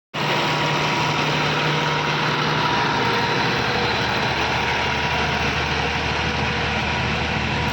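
Tractor engine idling steadily, with a faint steady whine above it.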